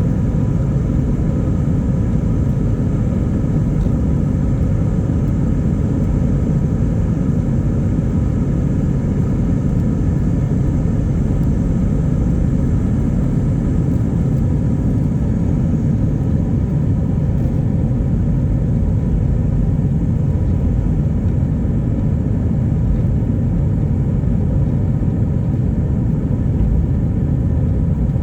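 Airbus A319 cabin noise: a steady rumble of its IAE V2500 engines and airflow, heard from on board, with a few faint steady tones above it.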